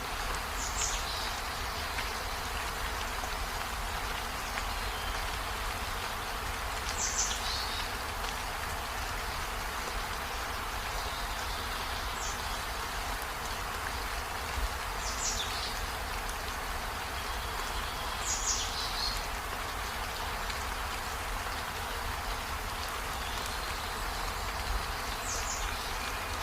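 Steady rain falling on foliage and a window, an even hiss, with about six short high chirps scattered through it, each a quick falling note.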